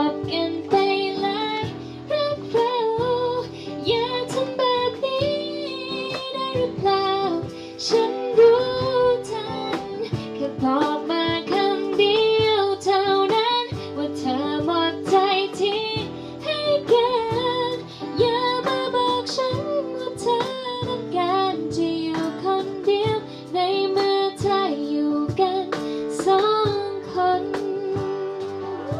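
A woman singing a Thai pop ballad live, accompanied by guitar.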